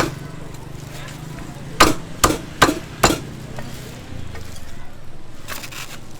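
Cleaver chopping on a wooden cutting board: one sharp chop at the start, then four quick chops about two seconds in.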